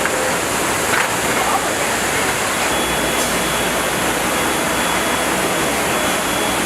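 Steady, even rushing noise, with a faint thin high whine joining about three seconds in.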